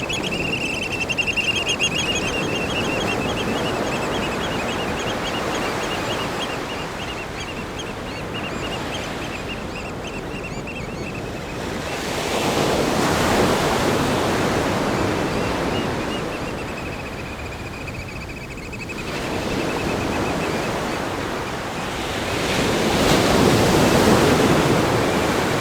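Ocean waves breaking on a rock groin and washing over sand, a steady surf rush that swells twice, about halfway through and again near the end.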